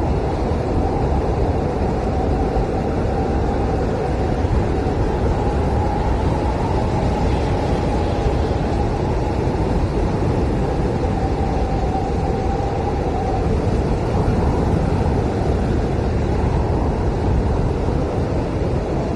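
Blizzard wind blowing in a steady rush. A faint whistling howl comes up through the middle stretch and fades out.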